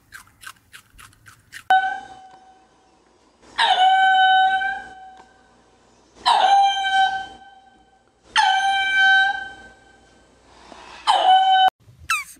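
A rabbit chewing with quick crunching clicks at first, then ring-tailed lemurs calling: four long wailing calls of about a second each, each dipping briefly in pitch and then held steady. Two quick falling squeaks come near the end.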